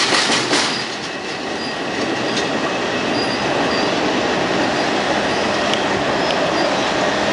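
Long Island Rail Road M7 electric commuter trains: wheels clacking quickly over rail joints for the first moment, then a steady loud rolling rumble with a faint wheel squeal as a train comes into the station.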